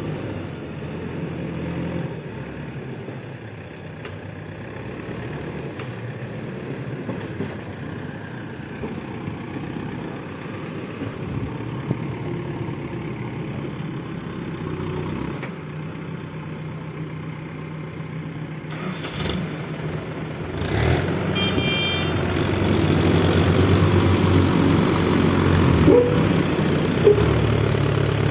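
Heavy diesel vehicle engines running steadily, growing louder and rougher about 20 seconds in as the machines work harder.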